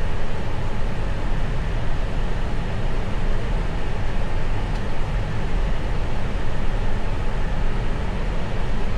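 Steady cockpit noise of an Airbus A321 climbing at climb thrust: an even roar of airflow and its IAE V2500 engines, heaviest in the low end.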